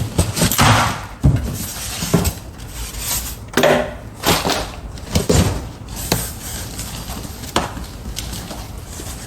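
Packaging being handled during an unboxing: irregular rustling and scraping with several sharp knocks and thumps.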